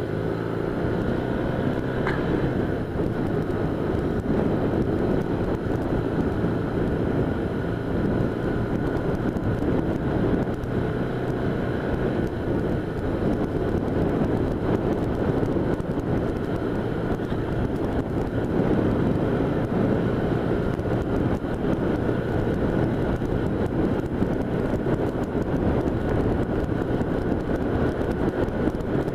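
1978 Honda Hawk 400's parallel-twin engine running steadily at cruising speed, heard from the rider's seat with wind rushing over the microphone.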